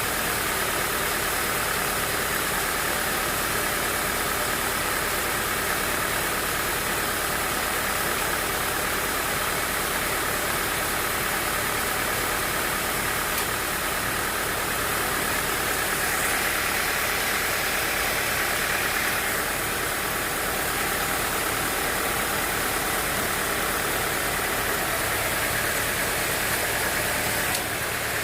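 Sawmill machinery running steadily: a continuous mechanical noise at an even level with no breaks.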